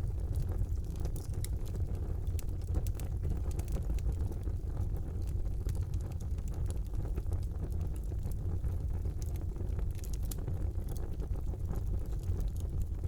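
Wood fire burning in a fireplace: a steady low roar of flames with scattered small crackles and pops throughout.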